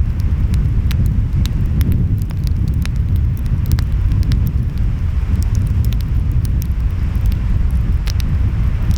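Wood fire crackling, with scattered sharp pops and clicks, over a steady low wash of ocean waves and wind.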